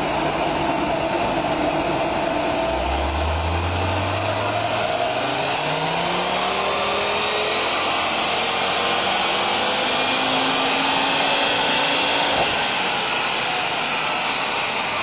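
Dreamscience-tuned Ford Focus RS's turbocharged five-cylinder under full load on a rolling-road dyno, its pitch climbing steadily through the rev range from about three seconds in until it lets off about twelve and a half seconds in: a power run that makes 360 horsepower. A steady rush of air from the dyno's cooling fan runs underneath.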